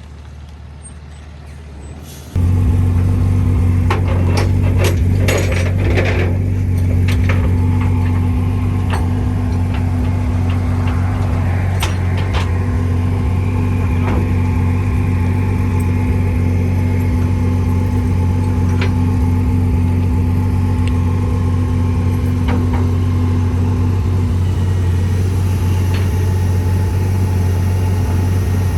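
Flatbed tow truck's hydraulics coming on about two seconds in and running steadily to load the car: a loud, deep, even hum with a higher whine that stops near the end. Scattered knocks and clanks sound over it, most in the first few seconds.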